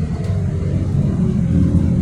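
Scania K230UD double-decker bus's engine running, heard from inside the bus as a steady low rumble that gets a little louder about a second in.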